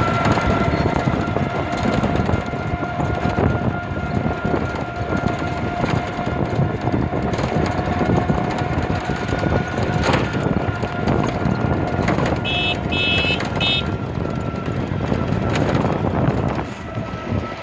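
A train running along the track, heard as steady running noise with a continuous high drone. About twelve and a half seconds in come three short high beeps.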